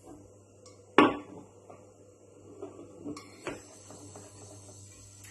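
Kitchen utensils knocking against a pan: one sharp clack about a second in, a second knock near the middle, and a few light clinks, over a steady low hum.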